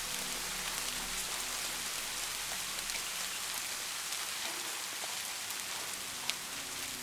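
Steady rainfall: an even hiss of rain on a surface with scattered individual drop ticks, one sharper drip about six seconds in.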